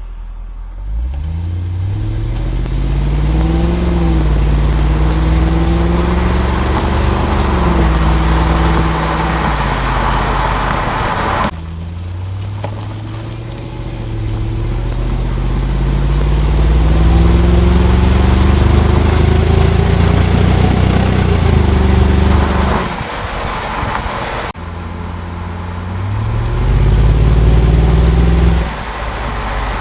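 2001 Jaguar XK8's 4.0-litre AJ27 V8 exhaust under acceleration, its pitch climbing with the revs. Three separate acceleration runs are spliced one after another, each cut off abruptly, about 11 and 24 seconds in.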